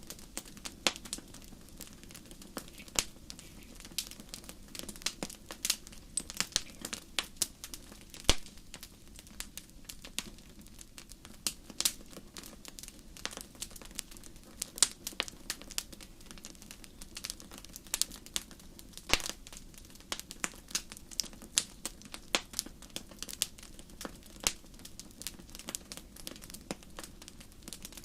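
Wood fire crackling in a fireplace: irregular sharp pops and snaps over a low, steady rush of burning. The loudest pops come about eight seconds in and again about nineteen seconds in.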